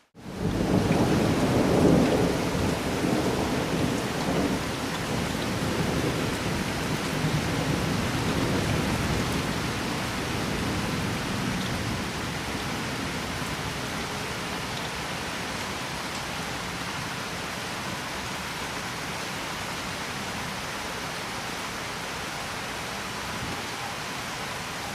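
Steady rain with a long roll of thunder: after a momentary dropout, the rumble starts sharply, is loudest about two seconds in, and fades away over the next ten seconds, leaving the rain alone.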